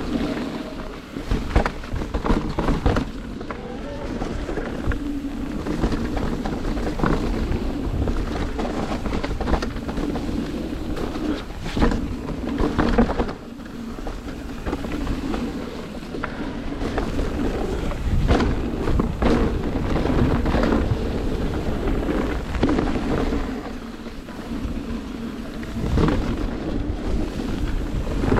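Mountain bike riding down a wet, sandy downhill trail: continuous tyre and wind noise with frequent sharp knocks and rattles from the bike over bumps.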